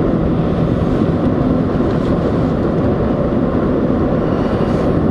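A vehicle driving on snowy roads in a blizzard: a steady, low rush of road and wind noise.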